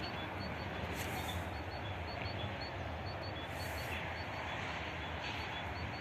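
Boeing 737 jet engines running with a steady rumble and hiss, with faint short high chirps repeating several times a second.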